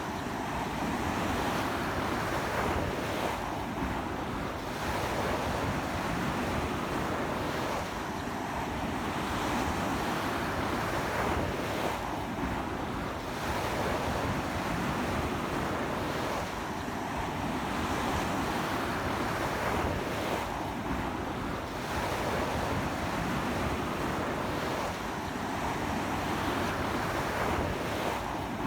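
Sea waves breaking and washing up a beach in a strong onshore wind, a continuous rush of surf that surges about every four seconds, with wind blowing on the microphone.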